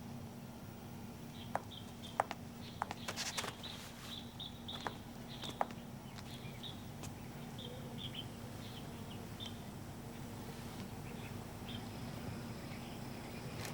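Small birds chirping, short high chirps repeating about once or twice a second, over a low steady hum, with a few sharp clicks in the first few seconds.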